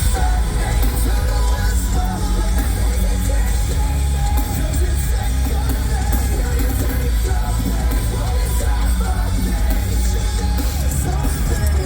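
Metalcore band playing live at full volume: distorted guitars, heavy bass and drums, with sung and shouted vocals over them.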